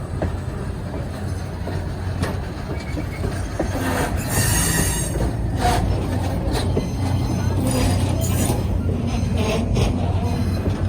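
Train rolling past with a steady low rumble, wheels squealing on the rail, loudest about four seconds in, and scattered sharp clacks.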